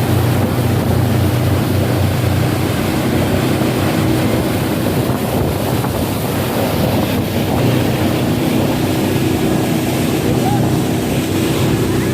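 Outboard motor of a passenger launch running steadily at speed, with water rushing and wind buffeting the microphone.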